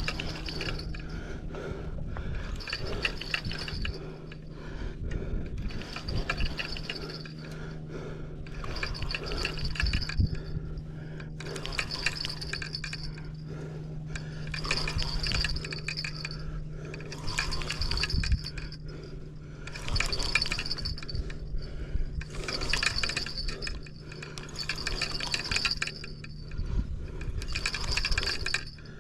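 Choppy lake water splashing and washing in repeated surges every two to three seconds, driven by strong wind, with wind rumbling on the microphone and a steady low hum underneath.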